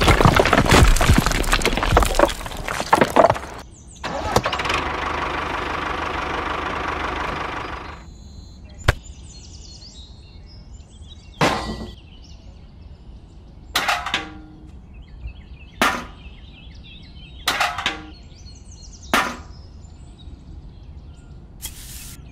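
Dozens of miniature clay bricks clattering and sliding out of a tipping toy trailer. A steady rushing noise follows for a few seconds, and then single sharp knocks come every one and a half to two seconds.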